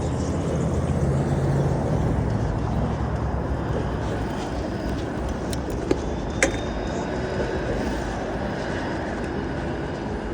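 City street traffic: a car engine running close by over steady road rumble, with two sharp clicks about six seconds in.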